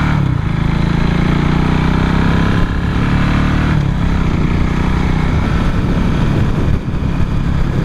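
Motorcycle engine running while riding, with wind noise on the microphone. The steady engine note changes about four seconds in, as the throttle eases off.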